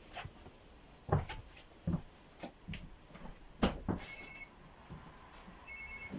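A series of knocks and clunks as a Lada Kalina is handled just before it is started, followed by short electronic beeps twice, once about four seconds in and again near the end.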